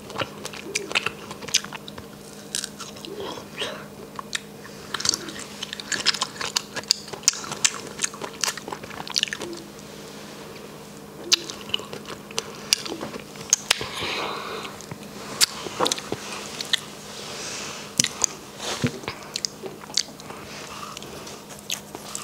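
Close-up chewing of a fresh strawberry, with many short wet smacks and mouth clicks throughout.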